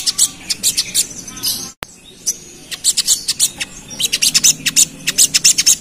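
Sogok ontong (sogon) giving rapid, high-pitched chattering calls in a dense run of short chips. The run stops for about a second a third of the way in, then starts again.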